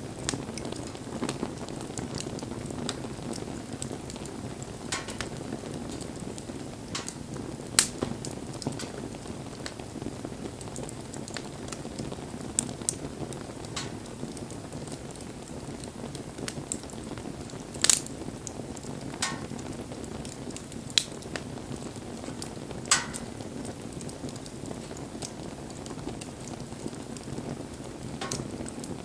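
Wood fire burning: a steady low rush of flames with frequent sharp crackles and pops from the burning wood, a few of them much louder.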